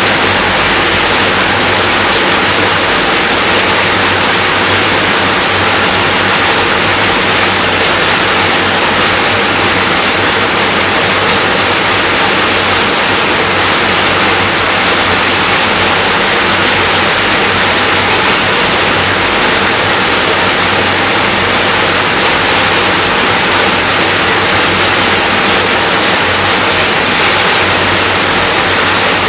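Steady rainfall, a loud, dense, even hiss that does not change.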